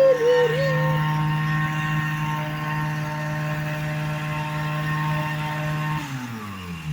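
FP 101 aircraft engine and propeller running steadily at a constant pitch. About six seconds in it is shut off and winds down, its pitch sliding lower as the propeller spins to a stop.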